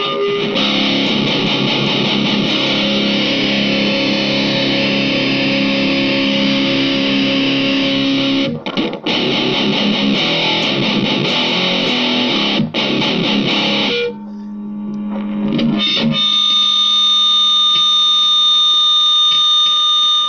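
Electric guitar with heavy high-gain distortion from a Nux MG200 modelling pedal, played in dense riffs with a couple of brief stops, then a held chord left ringing out steadily near the end.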